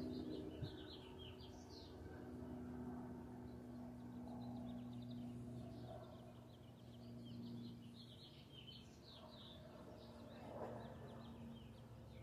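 Small birds singing in quick runs of high chirps that come in bursts, one around the start and another stretching from the middle towards the end, over a faint steady low hum.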